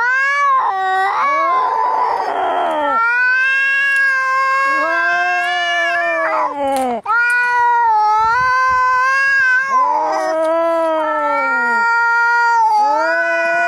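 Angry cats caterwauling in a fight: long, drawn-out yowls that waver and slide in pitch, at times two voices overlapping, with a hiss about two seconds in.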